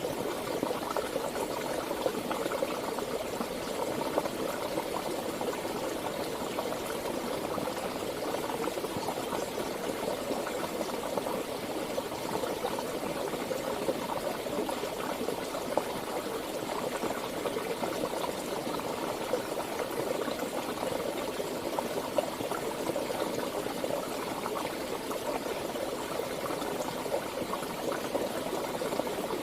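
Flowing water running steadily, a continuous rushing and splashing with small irregular spikes, as of a mountain river or stream.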